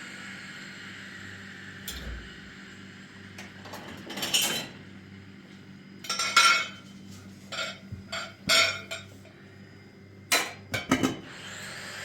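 Intermittent clinking and clattering of hard objects being handled: about ten separate sharp clinks and knocks, some in quick pairs, over a steady low hum.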